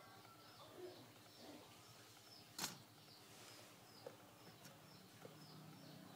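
Faint background of small birds chirping, short falling calls repeating every half second or so. About two and a half seconds in comes one sharp click, the loudest sound here, with a couple of lighter clicks later.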